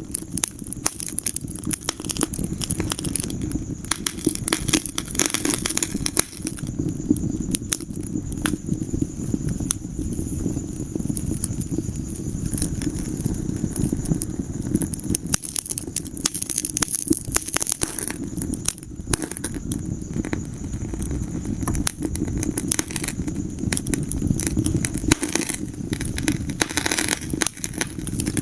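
Wood fire burning in a fireplace: irregular sharp crackles and snaps from the burning logs over a steady low rumble of the flames.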